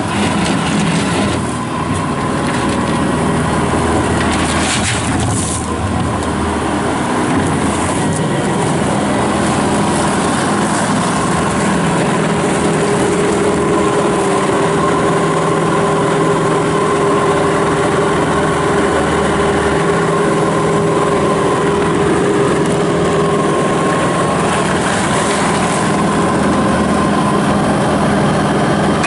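Bobcat S740 skid steer loader's 74 hp turbo diesel running steadily while the machine is operated, its note shifting a few times. A higher steady whine joins in around the middle for about ten seconds, and there are a couple of brief knocks early on.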